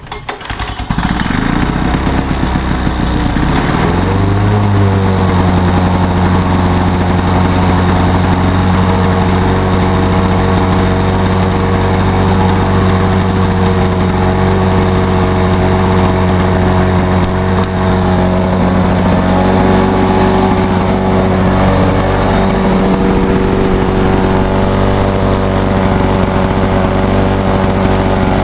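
Lawn-Boy 8461 Commercial mower's two-stroke engine in a cold start on choke after sitting for weeks: its speed wavers for the first few seconds, then it runs steadily and loudly.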